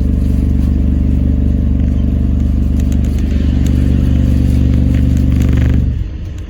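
Diesel engine of an Alexander Dennis Enviro400 MMC hybrid double-decker bus running with a steady low drone, heard from inside the bus, then cutting out abruptly about six seconds in, leaving quieter cabin noise.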